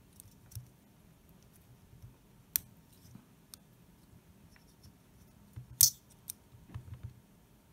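Scattered sharp clicks and light knocks of small metal hand tools working on the plastic and metal parts of an HO scale model locomotive chassis, prying at the light board and its metal tabs. The loudest click comes about six seconds in.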